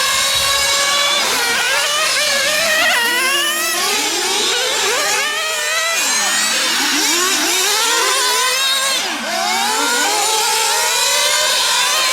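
Several nitro RC car engines running at high revs on a track, their pitches rising and falling and overlapping as the cars accelerate and brake.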